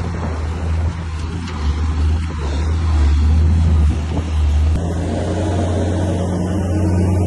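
Bulldozer diesel engine running steadily with a deep hum, its sound changing about five seconds in as more mid-range clatter comes in.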